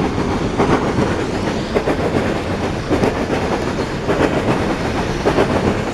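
Coal cars of a Norfolk Southern freight train rolling past, their wheels clattering over the rail joints in an uneven clickety-clack over a steady heavy rumble.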